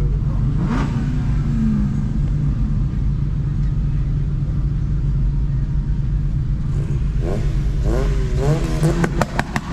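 Car engines running loudly with a deep, steady rumble and some revving. A rapid series of sharp pops starts about nine seconds in.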